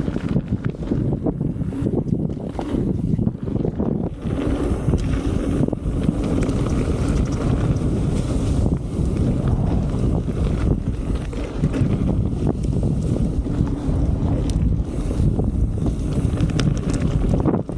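Wind buffeting the microphone of a chest-mounted action camera while riding a mountain bike along a dirt trail, with a steady low rumble and scattered short rattles and clicks from the bike.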